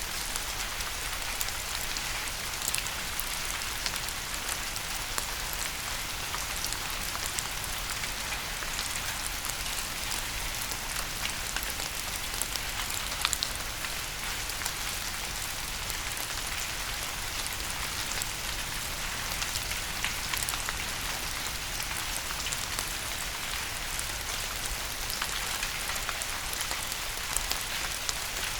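Steady rain falling on a surface: a constant even hiss with many sharp ticks of single drops scattered through it.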